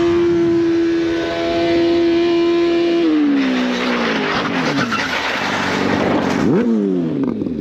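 Motorcycle engine held at high revs, then the pitch drops sharply as the throttle closes, with a rough skidding and scraping noise over it for a few seconds during the crash. Near the end the engine revs briefly up and falls away again.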